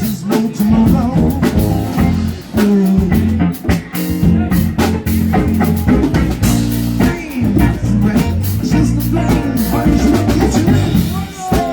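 Live band playing: drum kit keeping a steady beat under bass and electric guitar, with a voice singing at times.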